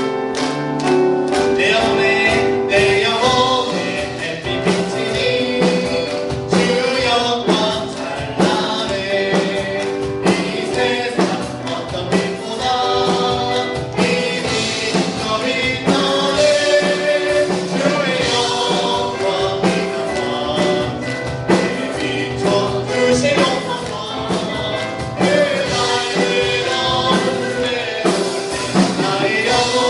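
Contemporary worship song: voices singing over a band with keyboard and a steady drum beat.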